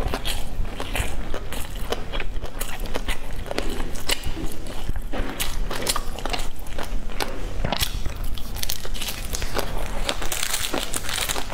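Close-miked chewing of a black sticky rice cake: soft, irregular wet mouth clicks and smacks. Near the end, the cake's cling-film wrapper rustles as it is peeled back.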